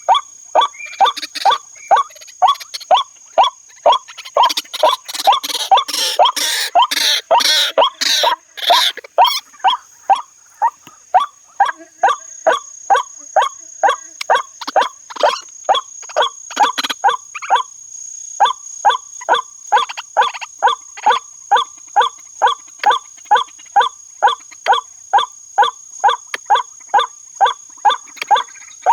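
White-breasted waterhen calls: a harsh 'kwak' repeated evenly about twice a second, pausing briefly about two-thirds of the way through. Around four to nine seconds in the calling gets louder and rougher.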